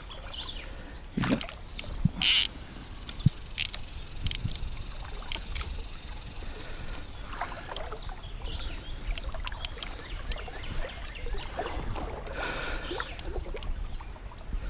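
Water splashing with scattered knocks and clicks as a hooked catfish is brought into a landing net beside a kayak, with gear bumping against the hull.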